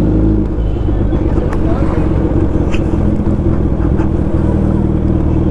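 Suzuki Hayabusa's inline-four engine running steadily while the bike rides slowly along a street, heard from the rider's seat, its note shifting slightly about four seconds in.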